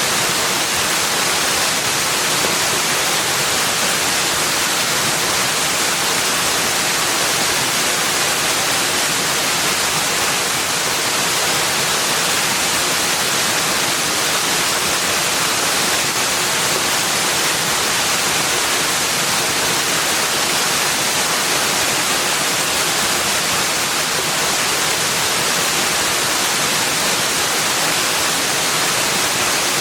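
Steady, unbroken rushing hiss, even throughout and strongest in the high range, with little bass and no calls or separate events in it.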